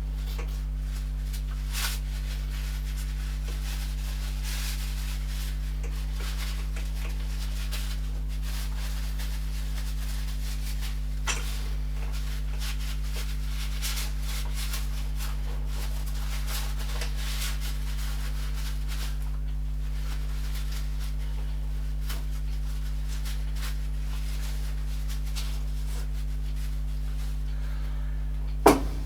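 Steady low electrical mains hum under faint, scattered rubbing and scraping noises of hand work, with one sharp knock about a second before the end.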